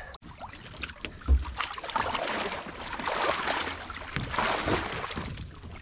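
Water splashing and sloshing, with a dull knock about a second in.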